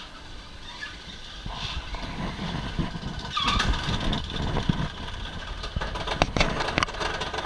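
Alpine coaster cart running along its rail track, its wheels rumbling and rattling. The rumble grows louder about two seconds in, with sharp knocks in the second half.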